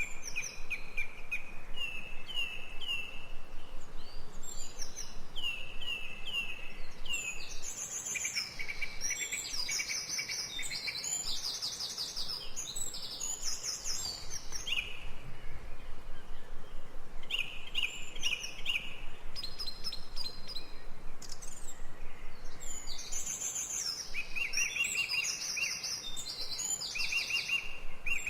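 Birdsong from several birds: quick repeated runs of short chirps and higher trills, over a faint steady background hiss.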